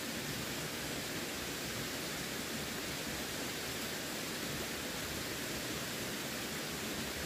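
Running water: a steady, even rushing hiss with no distinct splashes or changes.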